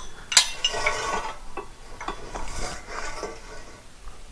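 Steel masonry prop clinking and rattling as it is handled and adjusted. There is a sharp metallic clink with a short ring about half a second in, then lighter knocks.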